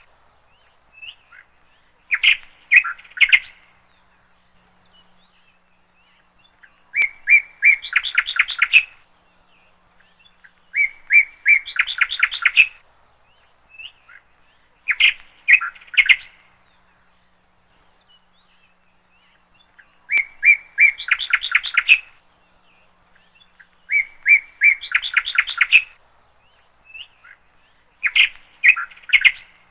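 A songbird repeating a short song about every four seconds, seven times: a few clear notes that run into a quick trill.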